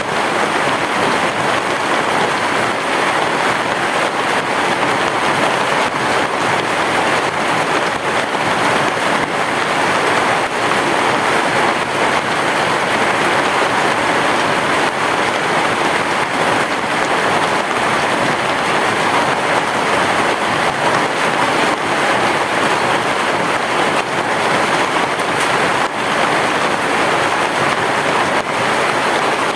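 Heavy rain pouring steadily on a roof: a dense, even wash of drops with no thunder.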